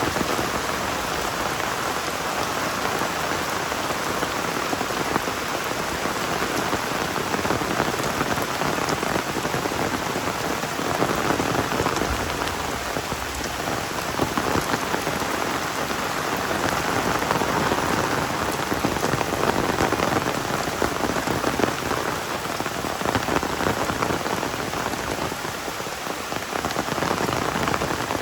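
Heavy rain falling steadily in a dense hiss of drops, swelling and easing every few seconds.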